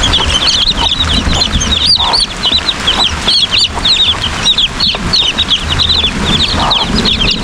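Chicks peeping rapidly and continuously in high, short calls, with an occasional lower cluck from a hen, over a steady hiss and low rumble of heavy rain.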